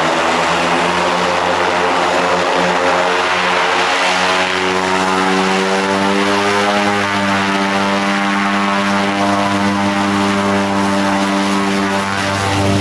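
Propeller aircraft engine running loud and steady, its tone shifting about four to seven seconds in and then holding steady.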